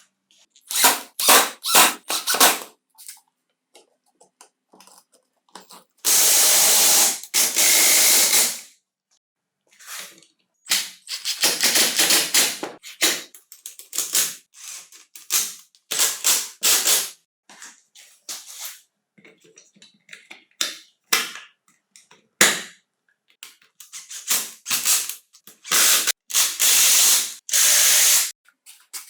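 Hissing spray in repeated bursts, most of them short, with two longer sprays of about two seconds each, one about six seconds in and one near the end.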